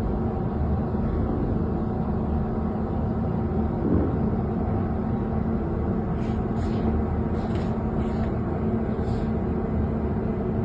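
A vehicle running, a steady low rumble with a constant hum, with a few faint light clicks about two-thirds of the way through.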